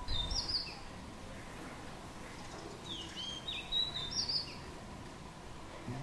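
Small bird chirping: short, high, quickly gliding chirps in two bouts, one near the start and another about three seconds in.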